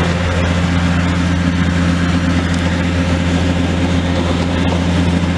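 Diesel engine of a demolition excavator running steadily at constant speed, a low, even drone.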